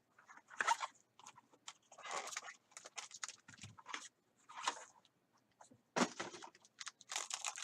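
Packaging of a sealed trading card box being torn open and handled: a string of short, irregular crinkles and crackles of plastic wrap and cardboard.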